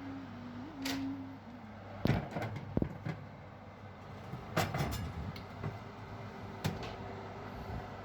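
A few knocks and clatters of objects being handled, the loudest about two seconds in, over a steady low hum.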